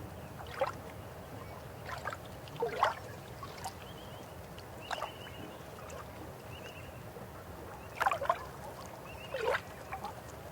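River water flowing steadily, with irregular gurgles and plops of water breaking over rocks, about seven of them in ten seconds.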